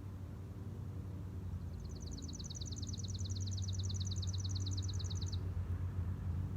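A songbird sings one trill of quick, evenly repeated downslurred notes, about eight a second, lasting nearly four seconds and starting about one and a half seconds in. A steady low hum runs underneath.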